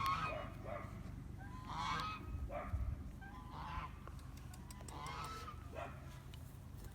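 Birds honking, several separate calls about every one to two seconds, with a low rumble underneath.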